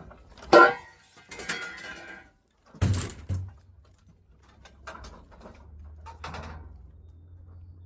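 A few knocks and clunks of objects being handled: a sharp hit about half a second in, a heavier thud about three seconds in, and lighter rattling a couple of seconds later.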